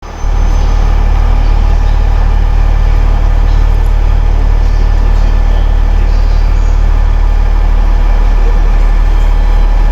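Diesel engines of a four-car KiyaE195 railcar set running steadily with a deep, heavy drone.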